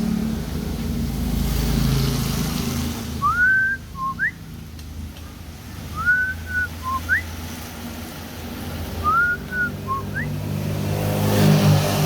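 A short whistled phrase repeated three times, about three seconds apart: a rising note that levels off, a short lower note, then a quick upward flick. A low engine rumble runs underneath and swells near the end.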